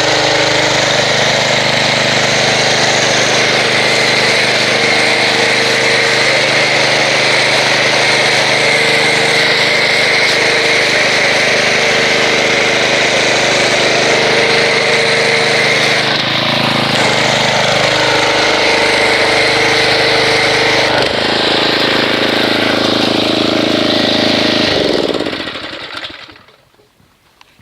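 Pressure washer running with a foam cannon spraying soap foam, a steady motor hum under the hiss of the spray, with two brief dips in pitch. Near the end the motor winds down and stops.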